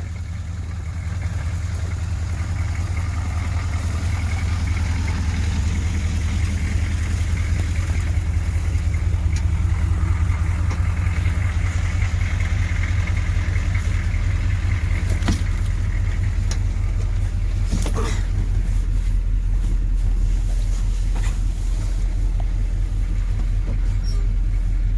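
M1028 CUCV's 6.2-litre diesel V8 running at idle, a steady low drone with a fast even pulse.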